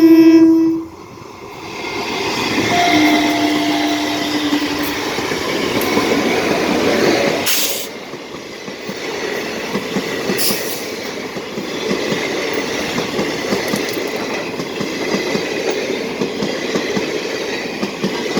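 Passing trains: a horn blast ending about a second in, then two shorter horn notes a few seconds later, followed by the continuous rumble and rhythmic wheel clatter of trains running past, with a sudden drop in the noise about eight seconds in.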